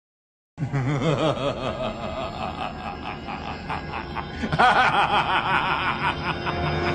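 A laughter sound effect: a person snickering and chuckling in quick repeated pulses. It starts after a brief silence and gets louder about four and a half seconds in.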